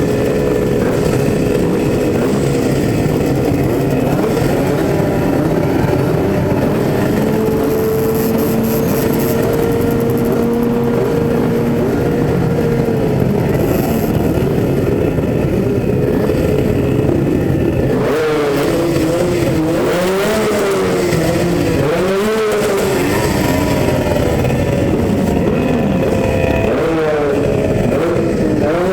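Several motorcycle engines running loudly, with throttle revs rising and falling in the second half.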